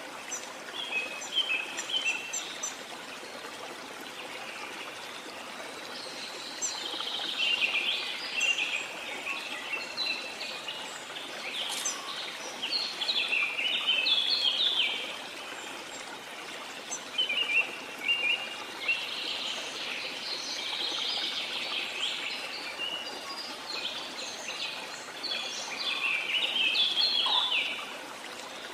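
Birds chirping and singing in repeated bursts over the steady rush of a waterfall.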